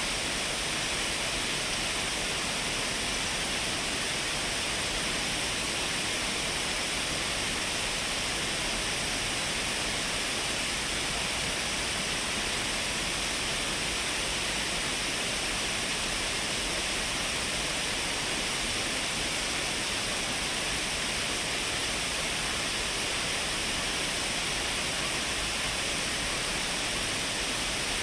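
Shiraito Falls, a broad waterfall of many falling streams, making an even, unbroken rush of water with most of its strength in the upper-middle range, heard binaurally.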